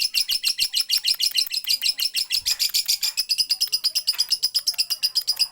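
Lovebird in full song, giving a long unbroken 'ngekek' chatter: rapid high chirps at about ten a second, with no pause.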